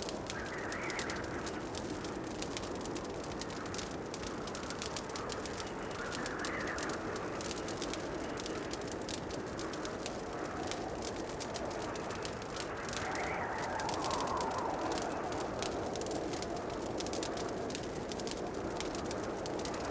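A wood fire crackling, with many small irregular pops and snaps over a steady rushing hiss. Soft swells rise and fall in the background about every six seconds.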